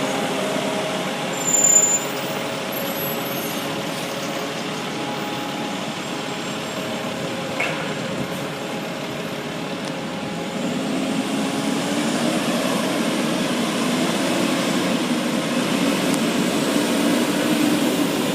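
Garbage truck engine running steadily, with a brief high-pitched burst about two seconds in. From about ten seconds in the engine grows louder.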